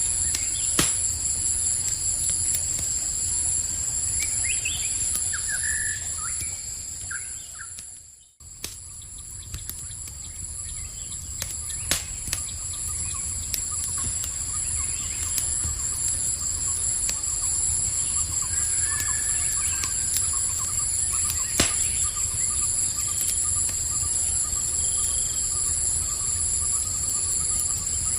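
Campfire crackling with occasional sharp pops, over a steady chorus of trilling crickets and a few short bird chirps. The whole sound briefly fades out and back in about eight seconds in.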